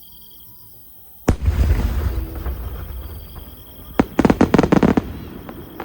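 Aerial fireworks bursting: one heavy boom about a second in with a long rumbling decay, then another sharp bang about four seconds in, followed at once by a quick run of crackling reports.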